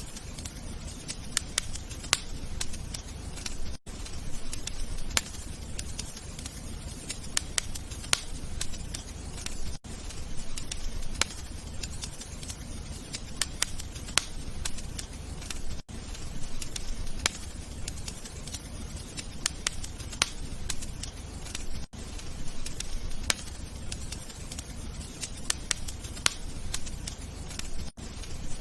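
Wood fire crackling in a fireplace: irregular sharp pops and snaps over a low rumble of burning. There is a brief dropout about every six seconds, where a short recording is looped.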